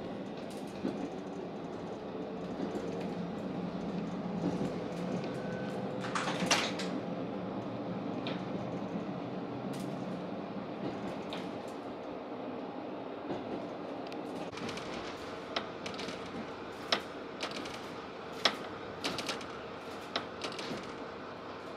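Cabin noise of a diesel railcar under way: a steady engine drone over the running noise that falls away about halfway through, followed by a run of sharp, irregular clicks and clacks.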